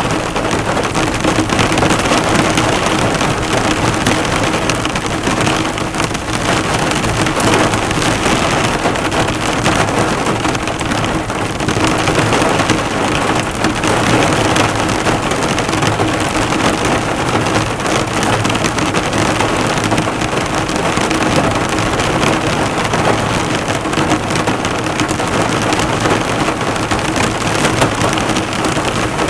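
Heavy rain drumming on a car's bonnet and bodywork, a dense steady patter of drops heard from inside the car.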